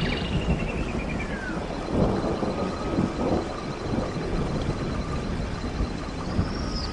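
Outdoor ambience: a steady low rumble with bird chirps in the first second or so, and a faint, steady high trill.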